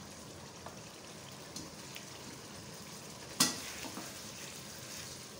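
Thick mutton biryani masala sizzling steadily in a wok as it is stirred with a spatula. There is one sharp knock about three and a half seconds in.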